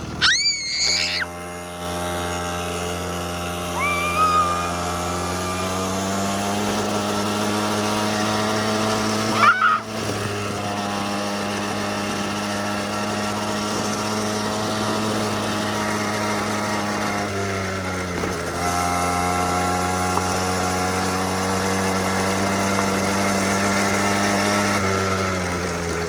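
Small petrol engine of a kids' quad bike running steadily under throttle, its pitch creeping up slowly, dropping briefly about eighteen seconds in, then picking up again. A few short high squeals come near the start and about ten seconds in.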